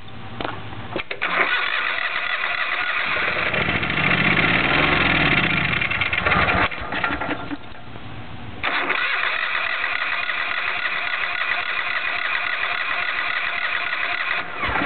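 Electric starter cranking an 18 hp Robin Subaru generator engine twice, each time for about six seconds, with a short pause between. The first crank swells louder midway, but the engine never catches: it will not start after sitting a long time, even after being primed.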